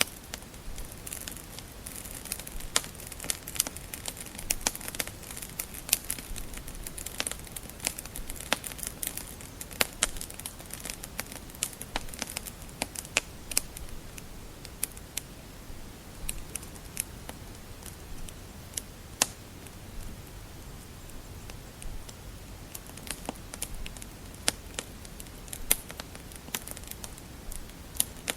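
Wood fire crackling: irregular sharp pops and snaps over a low steady hiss, busier in the first half.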